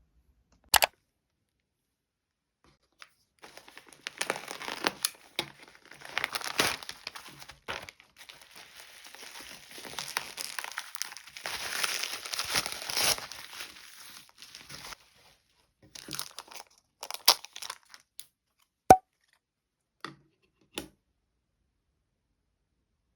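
Packaging being torn open and crinkled by hand, a long stretch of tearing and crinkling with a few sharp clicks and taps before and after it.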